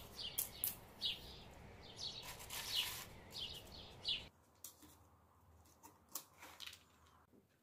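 Small birds chirping in short, quick, falling chirps over a steady background hiss. A little past halfway the hiss and chirping cut off abruptly, leaving a few faint clicks and rustles.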